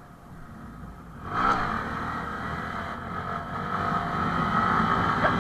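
Honda MSX SF's small single-cylinder engine opening up hard about a second in and then held at high revs, growing louder, as the minibike accelerates for a wheelie; the revs start to drop right at the end.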